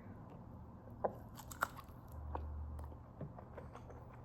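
A person chewing and biting goat meat close to the microphone, with a few sharp wet mouth clicks, the first about a second in.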